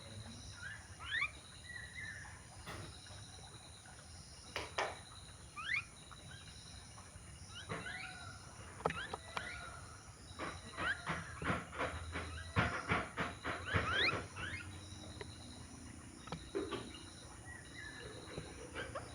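Birds chirping with short, quick rising calls, mixed with sharp clicks and taps that come thick and fast through the middle. A faint high note repeats steadily in the background.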